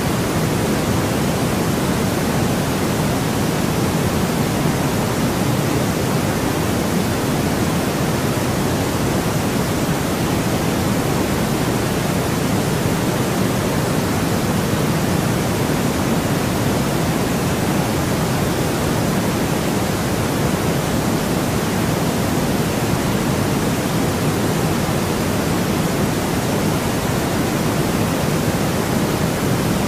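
Synthesized white noise: a steady, unchanging hiss with no events, heavier in the low and middle range.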